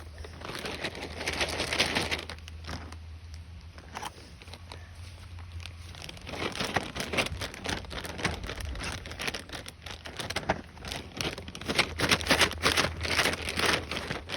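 Irregular crinkling and crackling rustle close to the microphone, growing into dense rapid crackles from about six seconds in.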